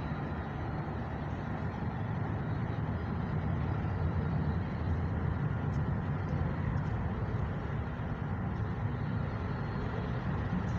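Electric commuter train running on the line: a steady low rumble, a little louder in the middle.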